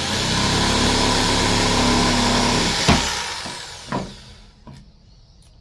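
A handheld power tool runs at full speed for about three seconds with a high whine. A sharp click follows, then the tool winds down over a second or so, with a small knock as it stops.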